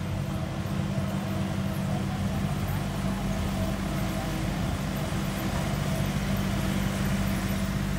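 Engine running steadily with an even low drone, its pitch unchanging.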